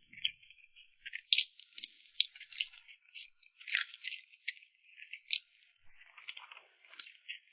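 Close-miked eating of cream cake: a quick, irregular run of small wet mouth clicks and smacks, with soft crackling between them.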